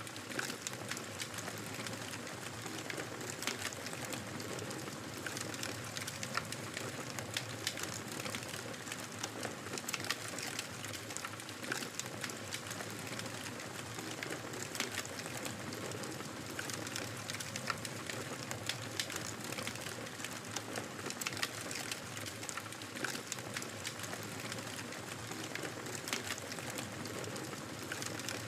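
Wood fire crackling steadily, a soft hiss of flames with frequent small sharp pops and snaps scattered throughout.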